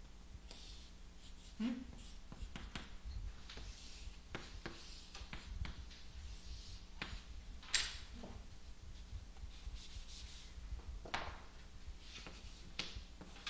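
Writing and drawing on a board: irregular scratchy strokes and short taps, with one sharper tap a little over halfway through, over a steady low room hum.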